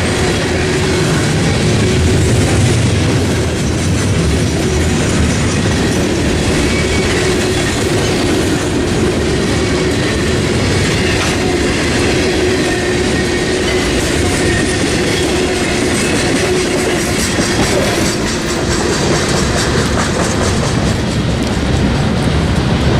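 Freight train passing close by, its cars' wheels clacking over the rail joints in a loud, steady rumble.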